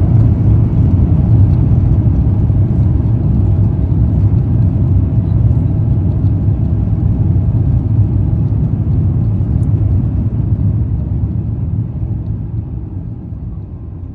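Airliner cabin noise after touchdown: a loud, steady low rumble of the jet rolling down the runway, fading over the last few seconds as the aircraft slows.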